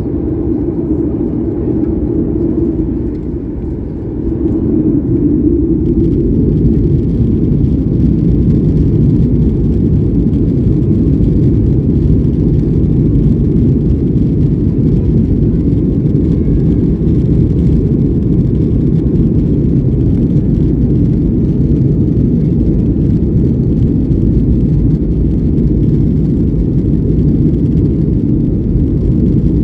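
Cabin noise aboard a Boeing 737-800 with its CFM56 turbofans running: a steady low rumble of engines and airflow that grows louder about four to six seconds in and then holds.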